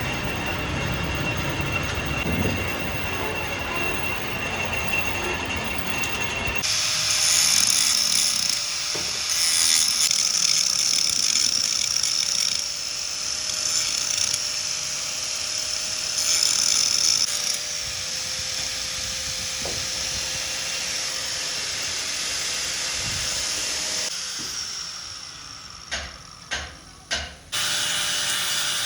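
A metalworking machine running steadily on tractor axle parts, with a strong high hiss over a steady tone; the sound shifts about a quarter of the way through, and a few sharp knocks come near the end.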